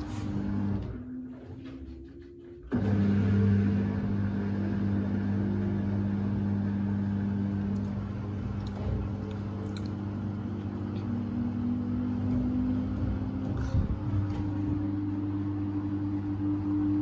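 Samsung WD70T4047CE washer-dryer's drum motor humming steadily during a wash. It drops away about a second in and starts up again abruptly nearly three seconds in as the drum resumes turning. A few faint knocks follow, likely the sneakers tumbling against the drum.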